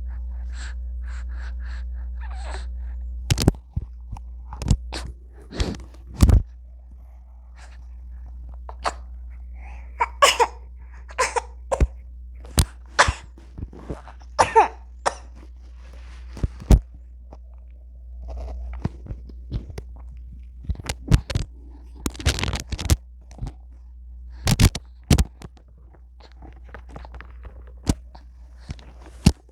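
A newborn baby's short coughs and sneezes, many of them at uneven intervals, with a few small vocal noises in the middle, over a steady low hum.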